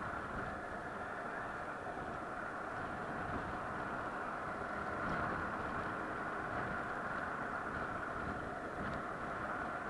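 Steady running noise of a moving vehicle, an even hum and rumble with no distinct events.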